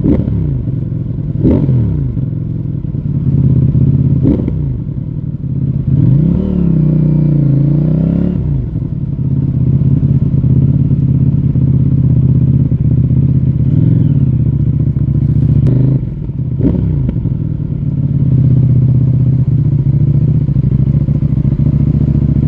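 CFMOTO 800NK Advanced motorcycle's parallel-twin engine through its stock exhaust, ridden on the road. The engine note drops and climbs several times in the first eight seconds and once more a little past halfway, then holds steady at a cruise.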